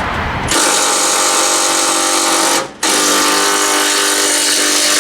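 Cordless power tool motor running with a steady whine, spinning a nut off a stud. It starts about half a second in, stops briefly near the middle, then runs again.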